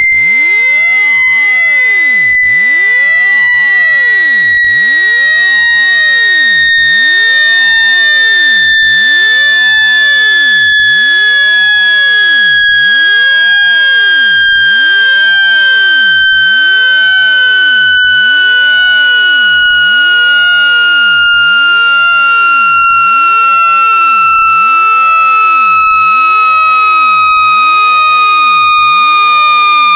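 Loud synthetic speaker-cleaning tone of the kind played to shake water and dust out of a phone speaker. It is a single buzzy pitch with overtones, gliding slowly and evenly downward, falling by almost an octave.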